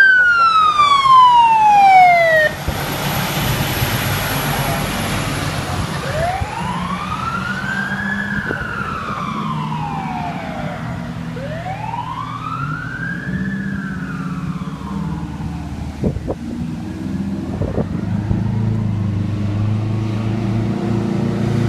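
Emergency vehicle siren on wail: a loud rising-and-falling sweep that drops and cuts off about two seconds in, then two slower, fainter wail cycles. A vehicle engine runs underneath and grows louder near the end.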